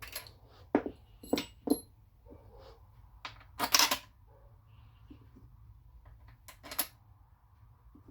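Small transmission bolts and hand tools clinking against the transmission valve body as the bolts are set in place: a string of sharp metallic clicks, some with a brief ring, and a short rattle about four seconds in.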